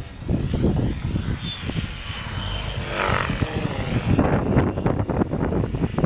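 Model airplane's propeller motor whining as it flies past, swelling and then dropping in pitch about halfway through. Heavy wind buffeting on the microphone rumbles throughout.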